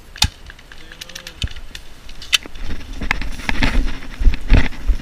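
Three sharp clicks in the first half, then loud rustling and heavy thumps from about halfway in: a player's gear and body moving close to the microphone.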